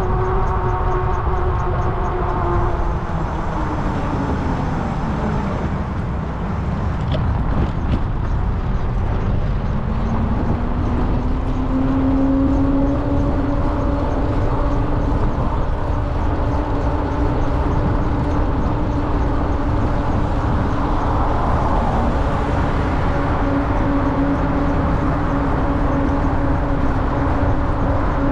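Electric bike's motor whining over heavy wind rumble on the microphone. The whine falls in pitch a few seconds in as the bike slows, then rises again around ten seconds in and holds steady at cruising speed.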